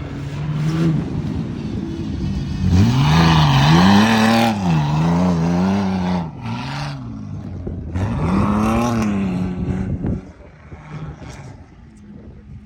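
A truck engine revving hard through an off-road course: the pitch climbs sharply about three seconds in and swings up and down with the throttle, surges again around eight seconds, then falls away near the ten-second mark.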